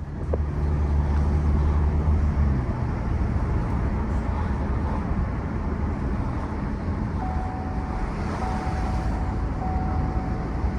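Car engine and road noise heard from inside the cabin, starting suddenly and running steadily. The low hum is strongest for the first two and a half seconds. From about seven seconds in, a repeating tone sounds roughly once a second.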